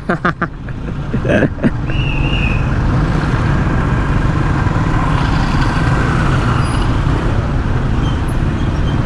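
Steady wind rush and road noise from a Yamaha NMAX 155 scooter in motion, with a low even engine hum beneath. A few clicks come in the first second or two, and a brief high squeak about two seconds in.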